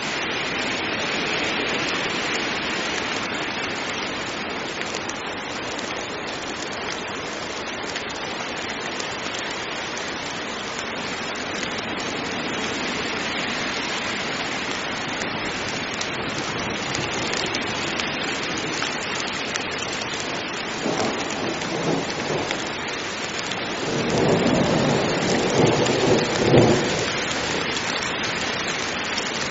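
Heavy rain falling steadily, with thunder rumbling twice: a short rumble about two-thirds of the way in, then a louder, longer rumble near the end.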